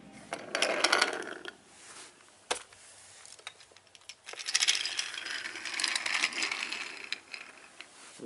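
Toy trains rolling on toy track with light clicking and rattling. There are single sharp clicks about two and a half and four seconds in, then a denser run of clatter.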